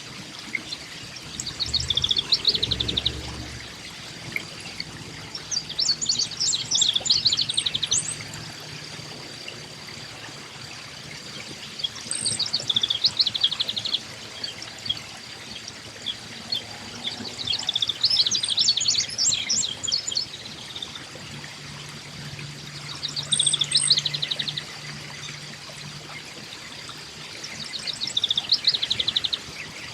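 Eastern towhee singing its 'drink-your-tea' song: a few clear high notes followed by a trill, repeated six times at intervals of about five seconds.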